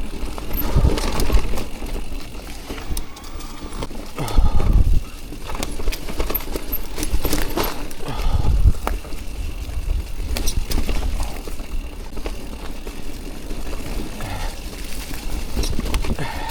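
Electric mountain bike ridden over rough, rooty dirt trail: tyres on the ground and the bike clattering and knocking irregularly over bumps, with gusts of wind rumbling on the microphone, the strongest about four and eight seconds in.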